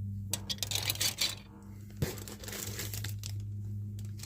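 Crinkling of plastic packaging as model-kit parts are handled, in two bursts, with a sharp click about two seconds in.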